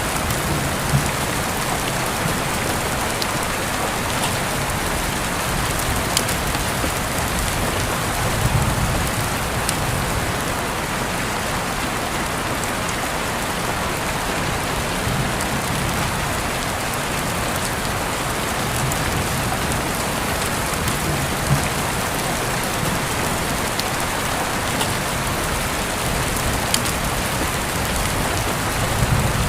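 Steady rain falling, with a few louder drops striking sharply close by now and then.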